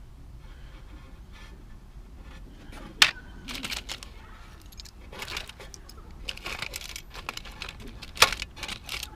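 Costume jewelry, rings among it, clinking and rattling as it is handled and sorted. There are two sharp clicks, about three seconds in and near the end, with rustling in between.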